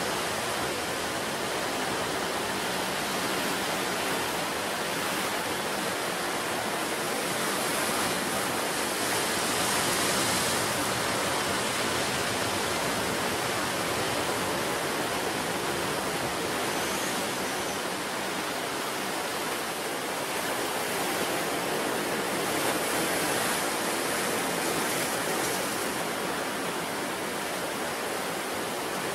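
Sea surf washing on the shore as a steady rushing noise, swelling slightly about a third of the way in and again near the end.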